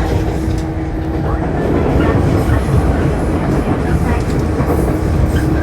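Shinano Railway 115 series electric train running, heard from inside the car: a steady, heavy rumble of wheels and bogies on the rails. A steady hum drops out about a second and a half in and returns near the end.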